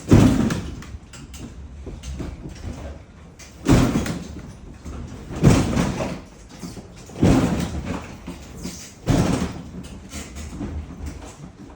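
A mobility scooter bumping down stone station steps one step at a time, a heavy thud as it drops onto each step: five thuds, the first at the start and the rest about every two seconds.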